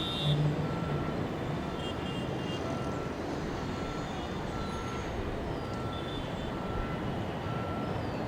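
A vehicle's reversing alarm beeping evenly, about once a second, over steady outdoor engine and traffic noise.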